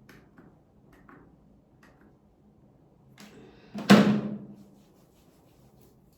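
A few light clicks and taps, then one loud knock on a hard surface about four seconds in, ringing briefly as it fades.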